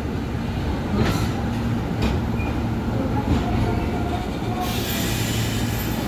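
JR 203 series electric commuter train rolling slowly along the platform with a steady low hum. Its wheels click sharply over rail joints twice early on, and a loud hiss sets in about three-quarters of the way through.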